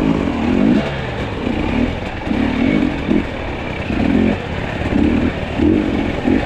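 Two-stroke enduro dirt bike engine revving in short bursts of throttle, about one a second, as it is ridden over technical trail.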